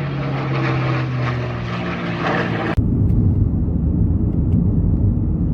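Aircraft flying over, its engine giving a steady drone. About three seconds in it cuts off suddenly to a low road rumble heard inside a moving car.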